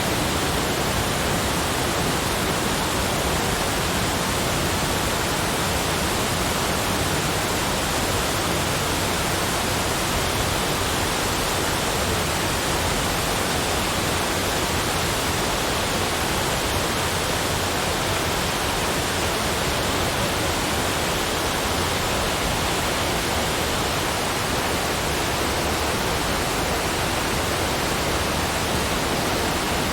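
A steady, even rushing hiss with no breaks or events.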